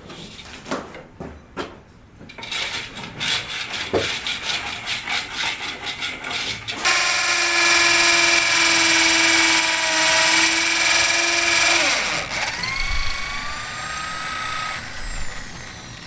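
Electric power tool on a building site: a fast rattling, then from about seven seconds a loud steady motor whine. Near twelve seconds the whine drops in pitch as the tool winds down, then a rising tone follows.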